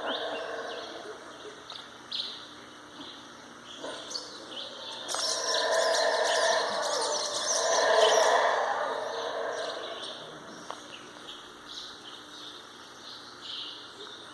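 Black howler monkeys roaring: a deep, rasping roar that swells about a third of the way in, peaks twice and fades out. Birds chirp throughout.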